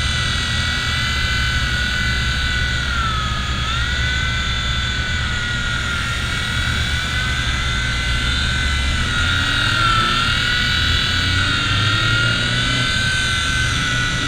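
V911 micro RC helicopter's electric motor and rotor whining steadily, the pitch dipping briefly twice as the throttle is eased and brought back up. A low rumble runs underneath.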